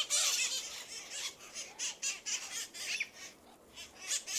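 A flock of parrots squawking: many short, shrill, repeated calls that overlap one another.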